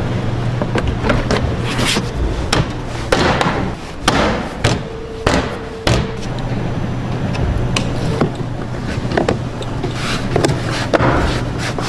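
Irregular knocks and clanks over a steady low machine hum, as in a workshop.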